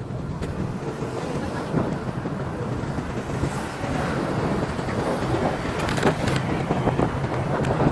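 Motorcycle engine running steadily while riding, with wind buffeting the microphone and road noise.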